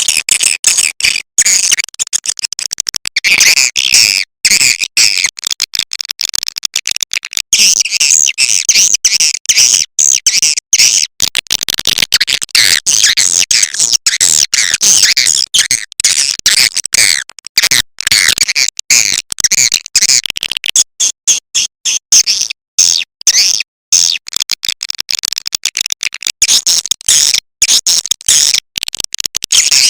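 Recorded swiftlet lure call of edible-nest swiftlets: a dense, high-pitched twittering chatter, broken by many brief gaps. This is the call sound that swiftlet farmers play from tweeters to draw the birds into a nesting house.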